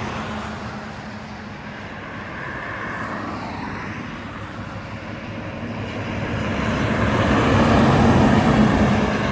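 A heavy truck driving past on the road, its engine and tyre noise swelling to a peak about eight seconds in, over a steady low hum.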